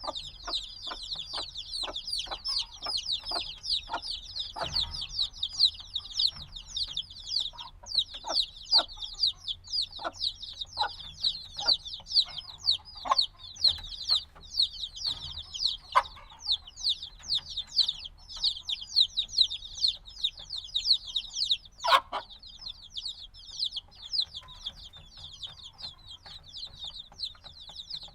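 A brood of days-old chicks peeping nonstop, many short high chirps overlapping in a dense stream. Soft scattered taps sound among them, with one sharper click about three-quarters of the way through.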